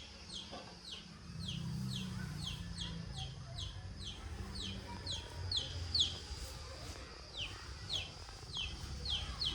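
A bird chirping over and over, short falling chirps at about two or three a second, over a low rumble.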